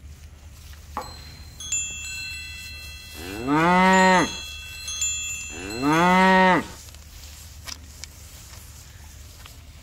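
A cow mooing twice, each moo about a second long and rising then falling in pitch. Bell-like chime tones ring out shortly before each moo.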